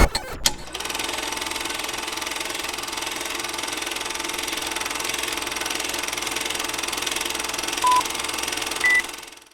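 Earthquake rumble sound effect: a steady, rattling rumble. Two short beeps come near the end, the second higher than the first, and then it cuts off abruptly.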